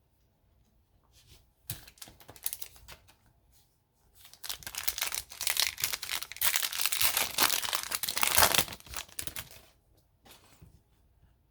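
A trading-card pack wrapper being torn open and crinkled by hand: a few short rips first, then several seconds of loud, continuous crackling and crumpling, ending with a brief rustle.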